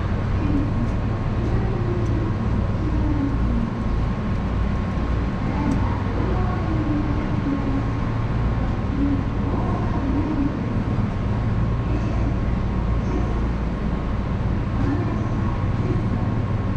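Hankyu 7000-series electric train heard from just behind the driver's cab: a steady low rumble with a constant high-pitched hum running through it.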